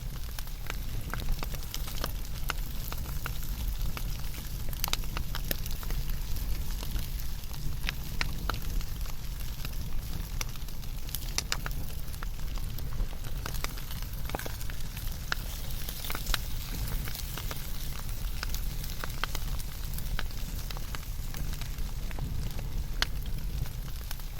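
Wood fire burning, with frequent irregular sharp crackles and pops over a steady low rumble and hiss of the flames.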